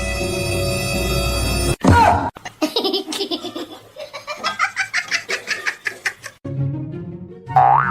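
Eerie music breaks off with a quick sliding sound effect. Then comes about four seconds of rhythmic, high laughter, and bouncy music with a boing-like glide takes over near the end.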